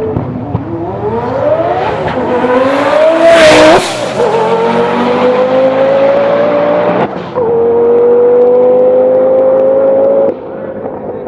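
Twin-turbo V10 of a Lamborghini Gallardo drag car at full throttle down the strip: the engine note climbs steadily in each gear, drops at upshifts about four and seven seconds in, then falls away as the driver lifts off near the end. It is loudest in the first gear, just before the first shift.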